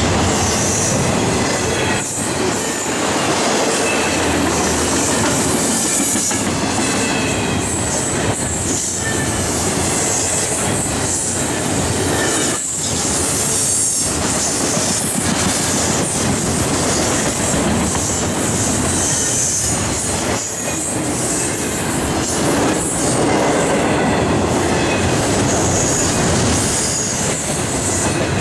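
Double-stack intermodal well cars of a freight train rolling past close by: a steady loud rumble and clatter of steel wheels on rail, with faint high squealing from the wheels now and then.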